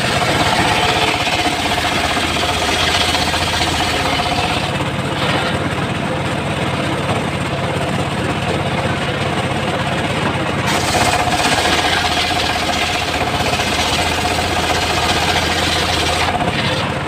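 Engine-driven homemade circular sawmill running steadily. Twice, a held whine and a harsher hiss rise over the engine as the blade cuts through a teak log: first for the opening four seconds or so, then again from about eleven seconds in until shortly before the end.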